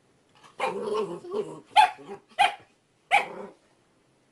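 A dog giving a drawn-out vocal sound, then barking three times in short, sharp barks.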